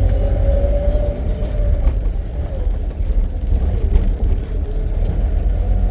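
Safari jeep engine running as the vehicle drives along a forest track: a steady low rumble with a whine that wavers slightly in pitch.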